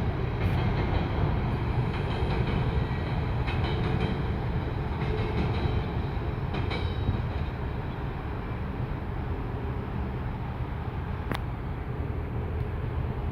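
Loaded coal train of hopper cars rolling past, a steady low rumble of steel wheels on rail with faint high squeals now and then in the first half. The rumble eases a little after about seven seconds, and there is one sharp click near the end.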